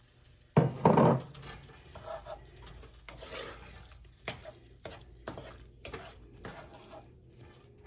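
Chicken pieces being stirred into a skillet of simmering cream sauce: a loud scrape against the pan about half a second in, then a utensil stirring with scattered light clicks and scrapes on the pan.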